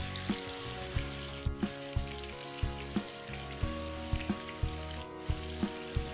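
Marinated chicken pieces sizzling as they fry in hot oil in a shallow pan, under background music with a steady beat.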